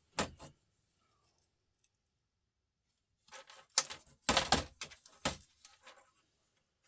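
Small salvaged laptop parts clinking and clattering as they are handled and dropped into sorting piles. There are a couple of clicks at the start, then a burst of sharp knocks and rattles about three to five seconds in.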